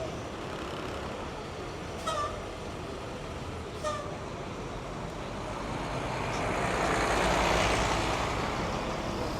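City street traffic ambience with a steady hum of vehicles. There are two short sharp sounds about two and four seconds in, and a heavy vehicle passes, swelling to its loudest about seven and a half seconds in before fading.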